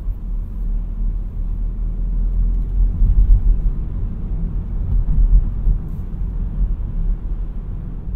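A 2017 Seat Arona with the 1.0 TSI three-cylinder turbo petrol engine being driven: a steady low rumble of engine and road noise that swells slightly a few times.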